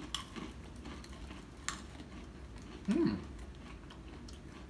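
Scattered faint crunches and clicks of chewing hard-coated chili-lime peanuts, with one sharper crack near the middle and a short hummed "mm" about three seconds in.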